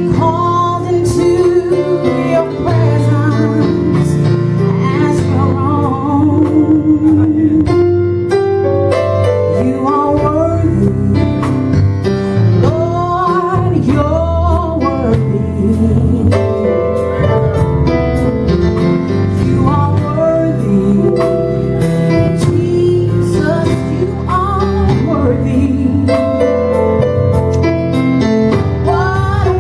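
Gospel worship music: a singer's wavering, sliding vocal runs with few clear words, over keyboard and band accompaniment.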